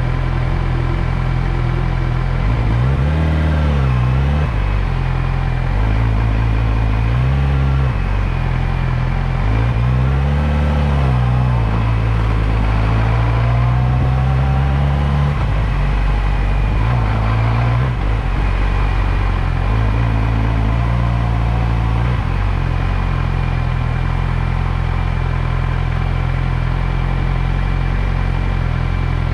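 Motorcycle engine running while riding, its pitch rising and falling several times in the first twenty seconds as it speeds up and slows, then holding steady.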